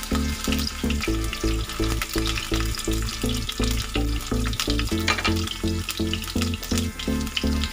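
Ginger slices sizzling and crackling in hot sesame oil in a wok, stirred with a wooden spatula, over background music with a steady beat.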